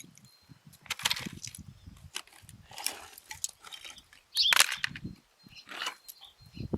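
Irregular knocks and scrapes of bricks and hand tools being worked in garden soil, a separate clatter every second or so, the loudest about four and a half seconds in.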